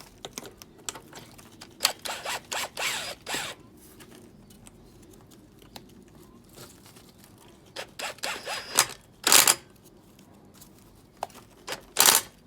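Metal clicks, scrapes and rattles of tools and parts being handled on a car's front suspension strut, in a few short spells with quieter stretches between. The loudest is a sharp burst about nine and a half seconds in.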